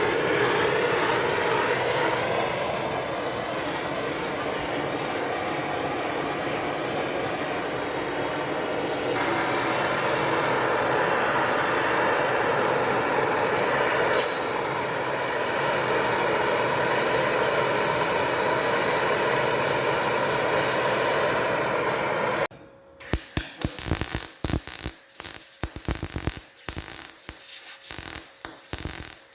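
Steady hissing of a torch or welding rig working on steel frame bracing. About three quarters of the way in it breaks off, then comes a dense, irregular crackling typical of MIG welding.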